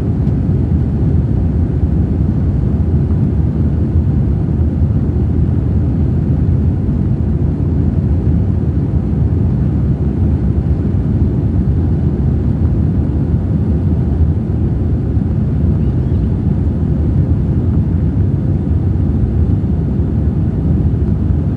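Airbus A321 airliner's jet engines and airflow during the climb after takeoff: a steady, low rumble with no change in level.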